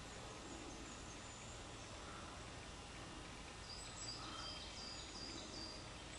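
Faint steady background hiss of open air. About four seconds in, a small bird gives a quick run of short, high, thin notes lasting about two seconds.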